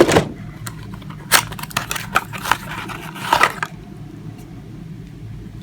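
A small cardboard box and its packaging being opened and handled: a run of crinkles and taps, mostly in the first three and a half seconds, then quieter handling.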